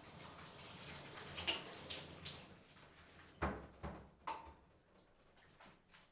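Shower water running, fading away about halfway through, followed by a few sharp knocks.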